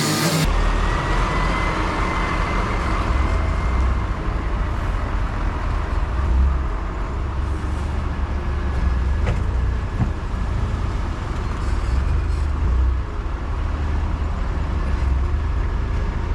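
Motor vehicle running: a steady low rumble of engine and road noise that starts abruptly about half a second in.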